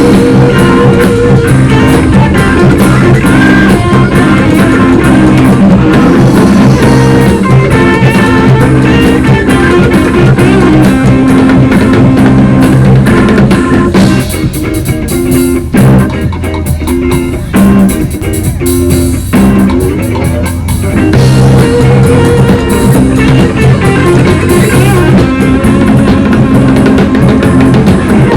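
Rock music from a band with electric guitar, bass and drums. About halfway through, the held notes drop out for several seconds, leaving a sparser, drum-led passage, and then the full band comes back.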